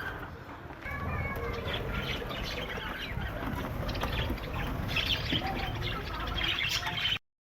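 A flock of budgerigars chattering and chirping, many short calls overlapping over a low rumble. The sound cuts off abruptly near the end.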